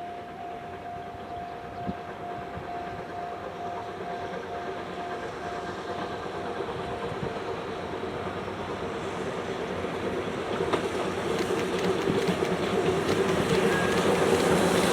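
C58 steam locomotive and its passenger coaches approaching, growing steadily louder, with wheels clicking over the rail joints in the last few seconds.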